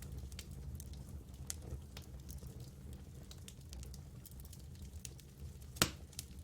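Campfire crackling: scattered small pops and snaps over a low steady rumble, with one sharp, loud pop near the end.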